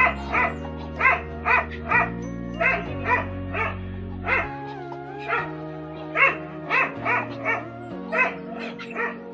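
A dog barking over and over, about twice a second, with background music playing underneath.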